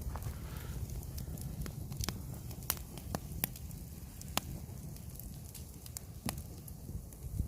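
Wood fire crackling, with about five sharp, scattered pops over a low steady rumble.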